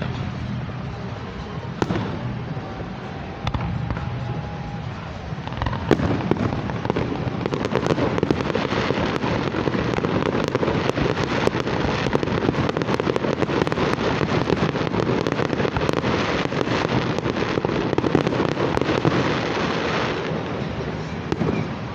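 Aerial fireworks going off: a few single bangs in the first six seconds, then a dense, rapid barrage of bangs from about six seconds that thins out near the end.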